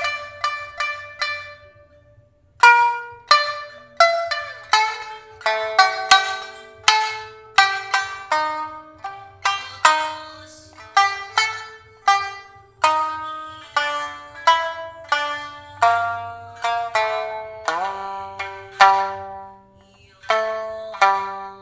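Shamisen played solo in a slow hauta melody: single plucked notes that ring and fade one after another. There is a brief pause about two seconds in, and one note slides upward late on.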